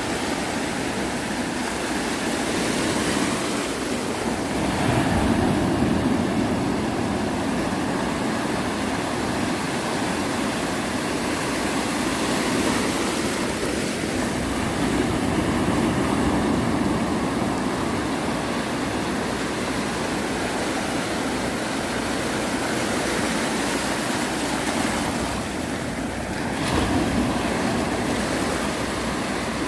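Sea waves breaking on a beach, a continuous wash of surf that swells and eases every several seconds.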